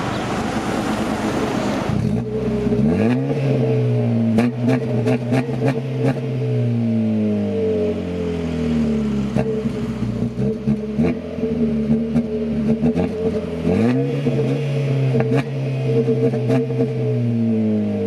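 Car exhaust with its muffler cut off, revved twice: each time the engine note rises quickly and then sinks slowly as the revs fall. Sharp crackles come through the exhaust note, and a couple of seconds of hissing noise come before the first rev.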